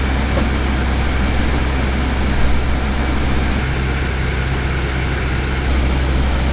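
A running engine's steady low hum under an even rushing noise, holding level throughout.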